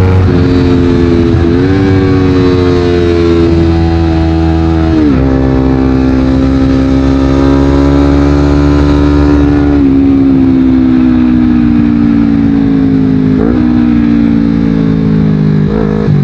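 Honda CBR250RR's parallel-twin engine through a Yoshimura exhaust, running under way at fairly steady revs. Its pitch drifts slowly and changes abruptly several times with short rev jumps, as at gear shifts.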